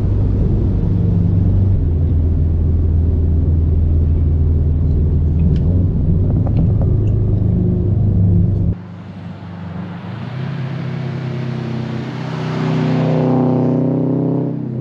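Subaru WRX STI's turbocharged flat-four running through a cheap aftermarket cat-back exhaust while driving, a steady drone. About nine seconds in, the sound cuts abruptly to a quieter stretch. There the engine note grows louder for a few seconds near the end.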